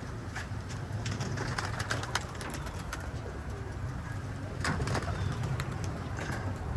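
Domestic pigeons cooing, with scattered short clicks and rustles.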